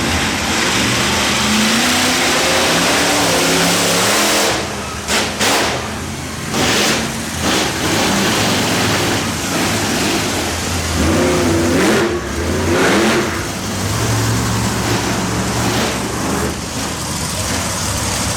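Monster truck engine running loudly and being revved, its pitch climbing about a second in and again around eleven seconds, over a steady rushing roar.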